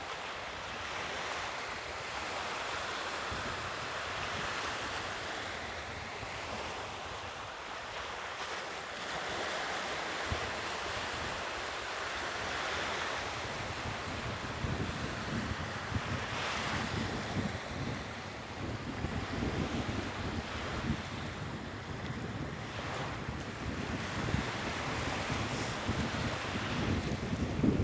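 Sea waves washing on the shore in a steady rush, with wind buffeting the microphone; the gusts come in from about halfway through and grow stronger near the end.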